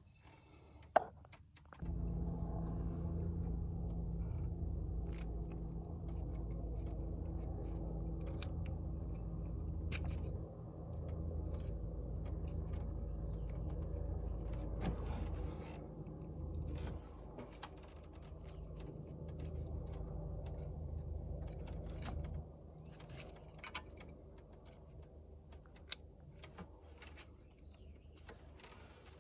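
A steady mechanical hum starts about two seconds in and drops to a lower level after about twenty seconds, with scattered short clicks and taps of tools and parts.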